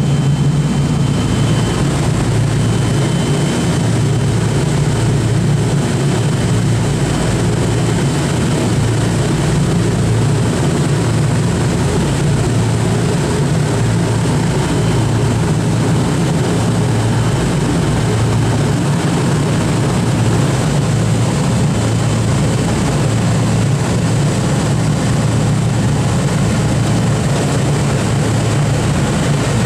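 Boeing B-29 Superfortress's piston radial engines running steadily and loudly, with a deep, even sound that does not change.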